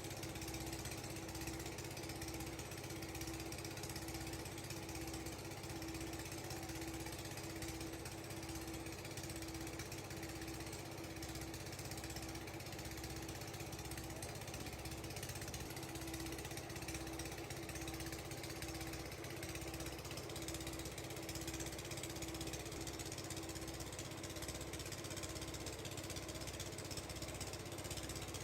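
Factory machinery running steadily: a constant hum with a low throb repeating about once a second.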